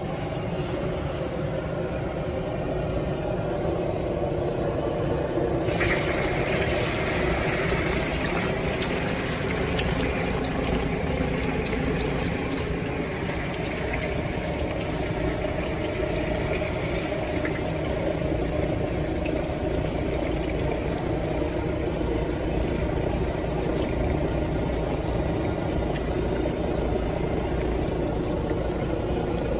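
An egg frying in hot oil in a pan. The sizzling starts suddenly about six seconds in and eases off after about seventeen seconds, over a steady low hum.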